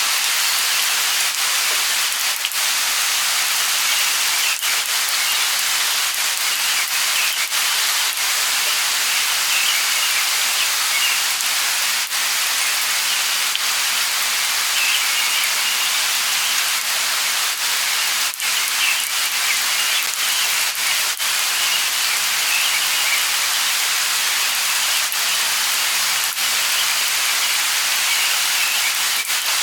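Steady light rain falling, a dense even hiss with fine drop patter, and faint bird chirps now and then in the middle and later part.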